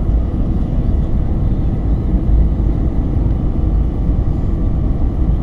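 Steady, loud rumble of engine and airflow noise heard from inside the cabin of an Airbus A321 airliner in flight, with a faint high steady tone on top.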